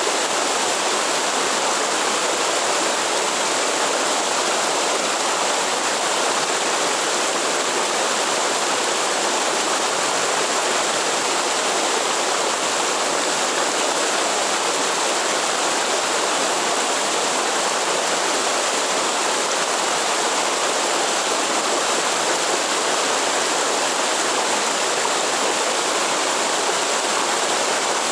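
Waterfall water rushing in an even, unbroken hiss.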